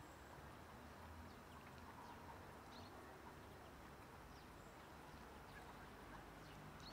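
Near silence outdoors, with a few faint, short bird chirps, one about three seconds in and another near the end.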